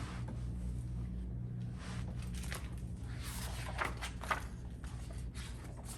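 A few soft rustles and light knocks, clustered in the middle, over a steady low hum.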